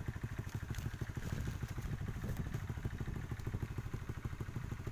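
A small engine running steadily at a fast, even, low putter, with no change in speed.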